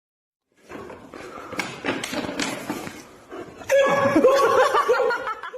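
People laughing, starting about half a second in and getting louder near the end.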